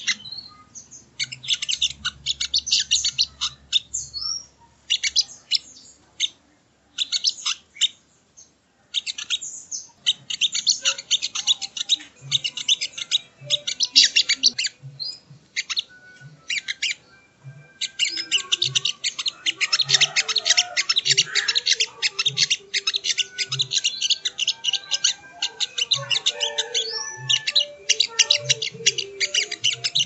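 Spiderhunter (sogok ontong) calling: rapid trains of sharp, high chirps in bursts of a second or several seconds, separated by short pauses.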